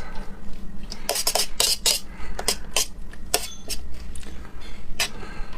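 Eating sounds: a string of sharp, irregular clicks and taps, typical of tableware being handled during a meal.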